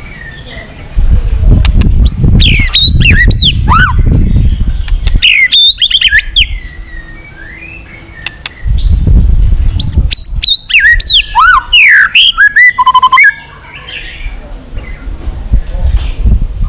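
White-rumped shama singing loudly in two bursts of rapid, sweeping whistled phrases, the second ending in a fast trill.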